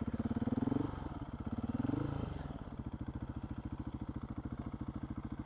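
Adventure motorcycle engine idling with an even, rapid pulse, briefly revved twice in the first couple of seconds, the pitch rising and falling each time.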